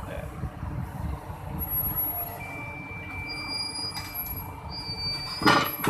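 A crawler crane's engine runs with a steady low rumble, and a thin steady high whine comes in about two seconds in. A loud metal clank sounds near the end, as the steel track is fitted back on.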